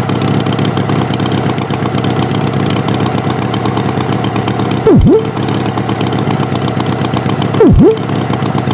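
Cartoon tractor engine sound effect running steadily. Two loud swooping effects cut in, each diving down in pitch and straight back up, about five seconds in and near the end.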